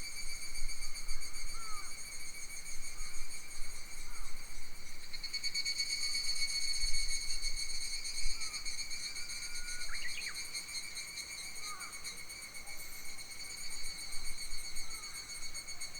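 Summer forest ambience: a steady, pulsing insect drone, strongest from about five seconds in, with short bird chirps scattered through it.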